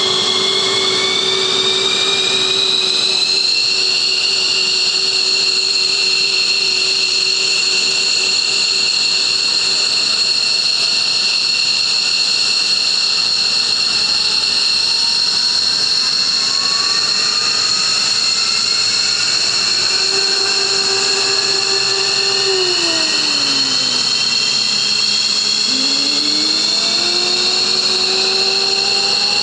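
Several military jet engines running on the ground, a loud steady high-pitched turbine whine. During the first few seconds one whine climbs in pitch and then holds. From the middle on, other engines' whines rise slowly as they spool up during engine start.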